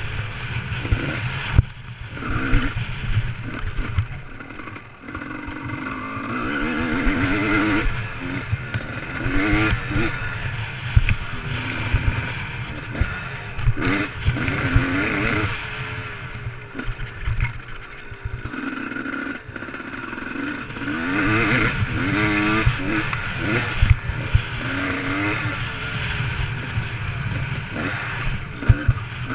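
Motocross motorcycle engine revving up and falling back again and again as the bike is ridden, with scattered sharp knocks and a heavy low rumble.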